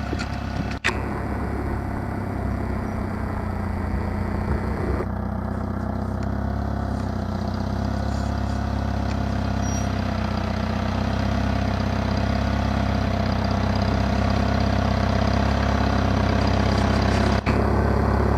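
Engine of a small vintage Cub garden tractor running steadily, with two very brief breaks in the sound, about a second in and near the end.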